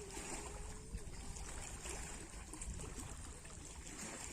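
Sea water lapping and trickling steadily, with a faint wavering tone over the first second.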